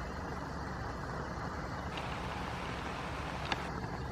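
Heavy rain falling steadily, an even hiss, with a single brief tick about three and a half seconds in.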